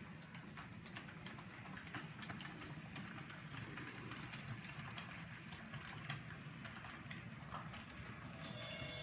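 Model train running on its track: a low rumble with irregular clicking of the wheels over the rails. Near the end a steady chord of several held tones starts.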